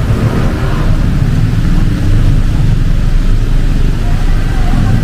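Motor traffic running on a wet city street in heavy rain: a steady, loud low rumble with the hiss of rain and wet road over it.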